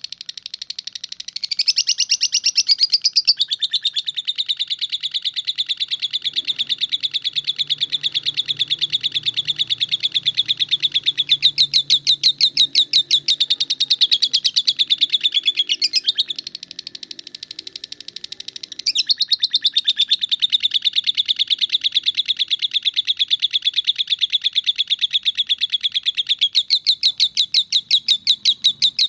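Lovebird giving its long 'ngekek' trill: a fast, high-pitched chattering run of many notes a second, sustained at length. It eases into a quieter stretch about two-thirds of the way through, then carries on.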